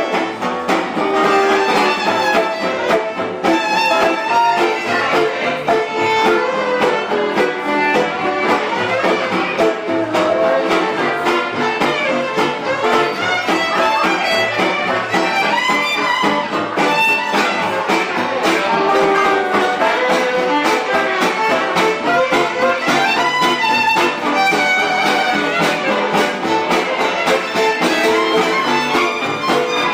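A live band playing an instrumental tune with violin and guitar to the fore, loud and continuous.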